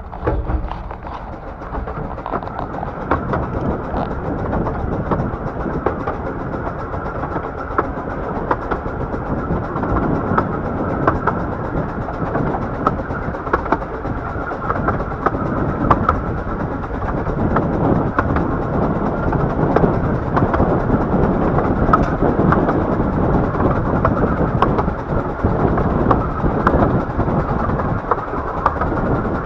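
Ride on a 15-inch gauge steam-hauled miniature railway train: steady running noise of the carriages with wheels clicking over the rail joints.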